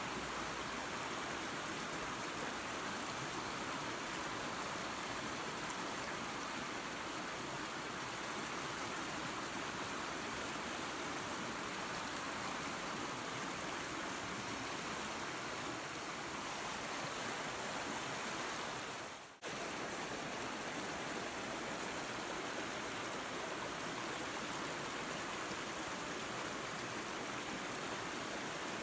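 Steady rushing of a waterfall and creek. About two-thirds of the way through it dips briefly to near silence and then cuts straight back in.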